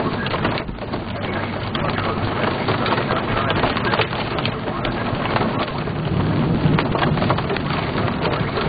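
Heavy rain pelting a moving car's windshield and roof as a dense patter of drops, over the steady wash of tyres on a wet road.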